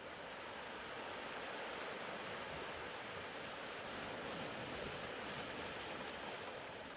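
Faint recorded ocean surf: gentle waves washing onto a shore as a soft, even hiss that swells slightly in the middle and eases off near the end.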